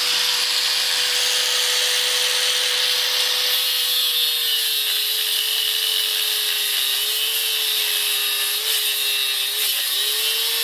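Angle grinder cutting through a metal engine mount: a steady high motor whine under a loud hiss of cutting, the pitch sagging slightly now and then as the disc bites under load.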